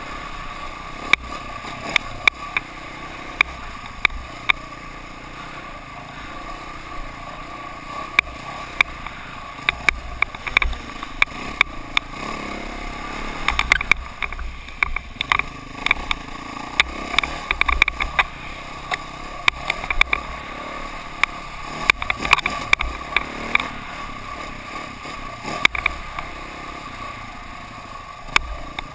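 KTM dirt bike engine running while being ridden, a steady drone broken by frequent sharp clicks and knocks.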